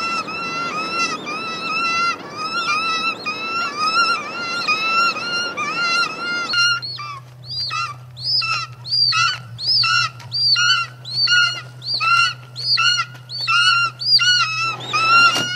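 A flock of birds shrieking, many calls overlapping, over a rushing noise for about the first six seconds. After that the shrieks come in a steady run of about two a second over a low hum.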